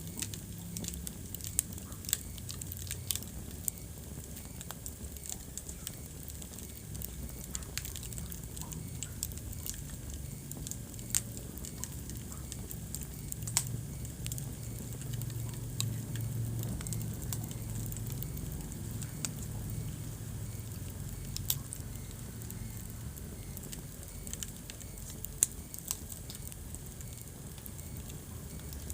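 Wood fire burning in a fireplace, crackling with irregular sharp pops, a few of them louder, over a steady low rumble of the flames.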